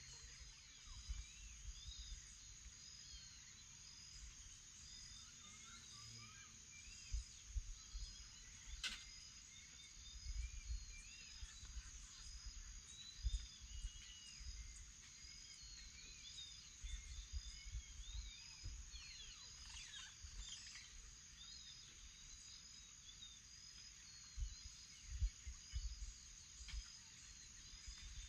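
Morning chorus of several birds calling over a steady high insect drone, with one short high chirp repeating under once a second. Low rumbles come and go throughout.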